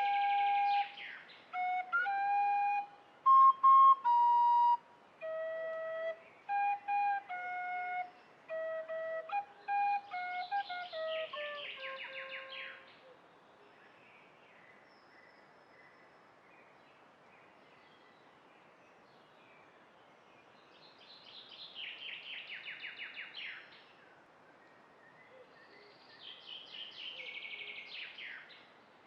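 A flute-like melody of clear held notes that step up and down in pitch and slide down to a close about 12 seconds in. A bird then sings a rapid high trill three times, each trill about two and a half seconds long.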